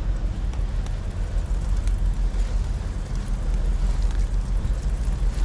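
A passing train's steady low rumble, with a few faint clicks over it.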